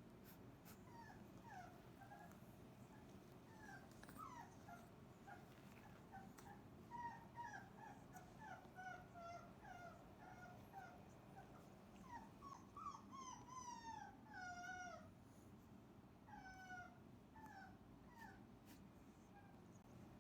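Cane Corso puppies whimpering and whining: many short, faint, high calls, some sliding down in pitch, overlapping most thickly around the middle.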